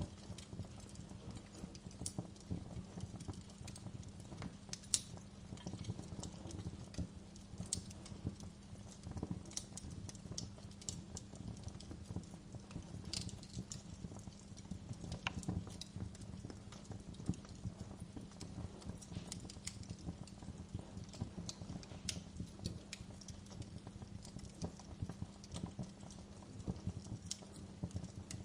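Wood fire burning in a fireplace: a steady low rumble of the flames with frequent irregular crackles, pops and snaps.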